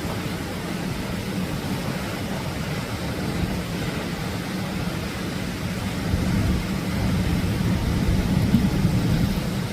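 Atlantic surf: a steady rush of waves breaking on the shore with a low rumble, swelling louder about six seconds in.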